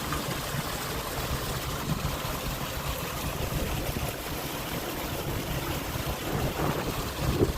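Steady running-water noise with a low hum underneath.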